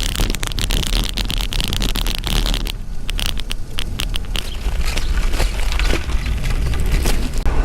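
Wind buffeting the microphone while riding a road bike, a steady low rumble with crackling tyre and road noise and rattles throughout.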